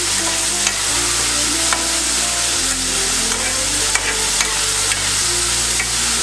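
Halved karonda berries and green chillies sizzling in hot oil in a metal kadhai, stirred with a metal slotted spatula that scrapes and clicks against the pan now and then.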